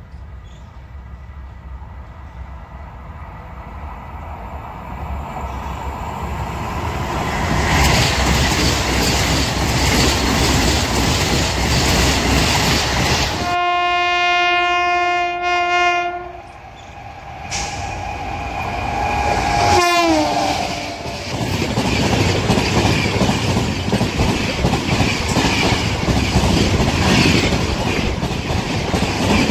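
Trains passing: a train's rumble builds over several seconds to a steady din. A locomotive horn sounds for about two and a half seconds midway, and a short horn blast drops in pitch about twenty seconds in. After that the wheels clatter steadily as a train runs past.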